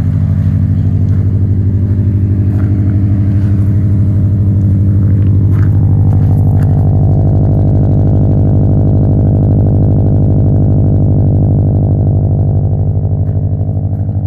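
Engine idling steadily after a cold start, with an even fast firing pulse. A few light clicks come through about six seconds in.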